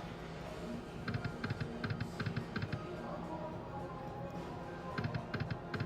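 Thunder Cash poker machine spinning: quick runs of short electronic clicking beeps as the reels turn and stop, over the machine's steady music.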